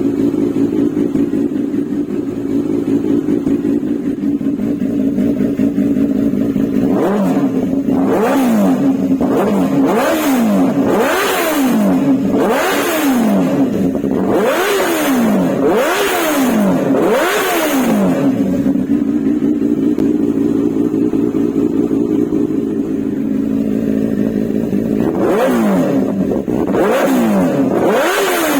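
Benelli TNT 600 inline-four motorcycle engine and exhaust idling steadily, then revved in a quick series of throttle blips with the pitch rising and falling. It settles back to idle, then is blipped again a few times near the end.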